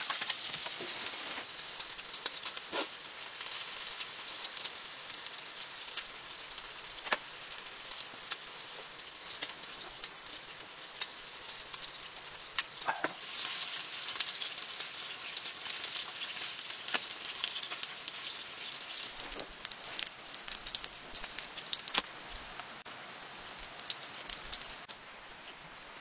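Heavy rain hissing steadily, mixed with food sizzling in a pan on a camp stove. Scattered sharp clicks sound through it, and the hiss drops in level near the end.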